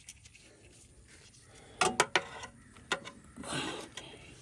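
Pliers working a spark plug wire boot off its plug: several sharp clicks and snaps about two seconds in, another a second later, then a brief scraping rub.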